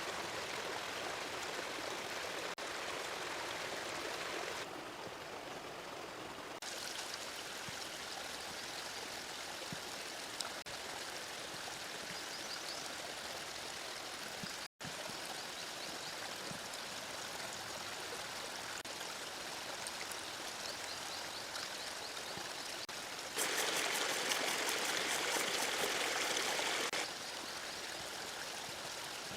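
Running river water, a steady rush, cut between several shots; it grows louder for a few seconds about three-quarters of the way through.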